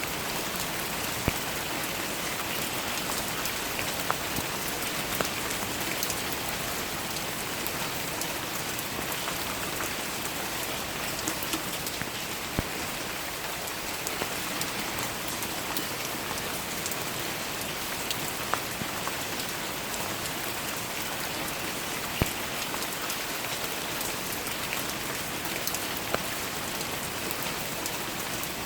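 Steady rain falling, a dense even patter, with scattered louder individual drops hitting close by.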